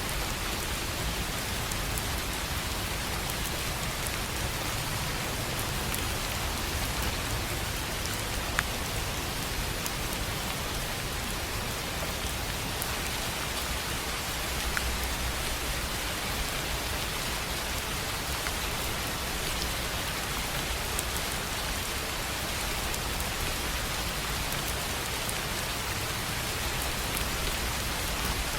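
Steady rain falling on a tin roof: an even hiss with scattered sharper drop ticks, two of them standing out about a third of the way in and about halfway.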